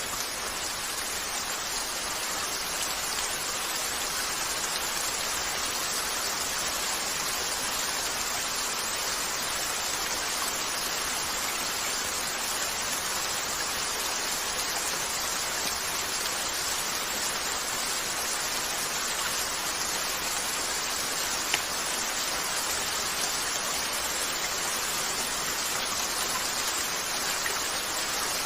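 Steady, even rain falling on a window pane. A single sharp pop from the fireplace comes about three-quarters of the way through.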